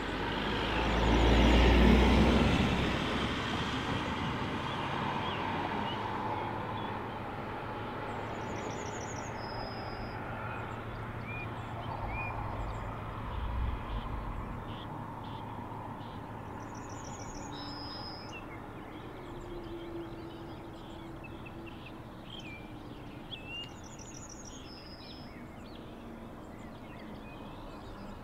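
Distant train approaching on an electrified line, heard as a steady rushing noise that swells with a deep rumble about two seconds in and then slowly fades. Songbirds chirp throughout, and one bird repeats a short high phrase three times.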